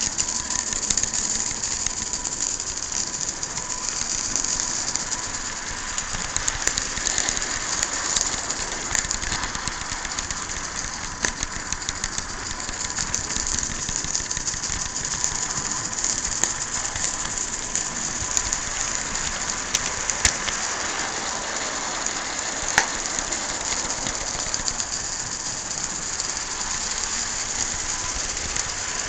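Live-steam garden-scale Shay locomotive running along the track: a steady hiss of steam with scattered light clicks and ticks from the running gear and rails.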